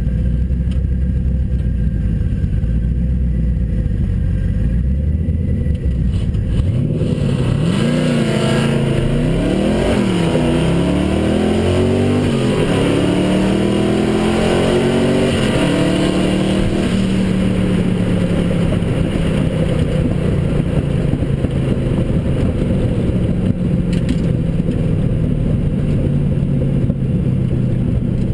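Twin-turbo Fox-body Ford Mustang heard from inside the cabin: a low idle rumble while staged, then a full-throttle drag launch with wheelspin, the engine note climbing and dropping at each of several upshifts. About seventeen seconds in the driver lifts and the engine settles into a steady lower drone as the car slows.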